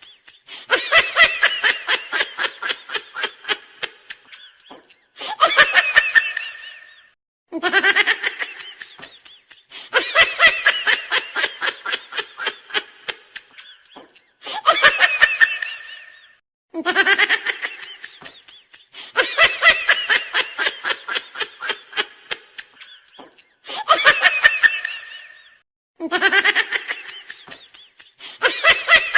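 Laughing sound effect played on a loop. Each round opens with a rising whoop, runs into a string of quick pulses that fade away, and ends with a short burst, repeating about every nine seconds.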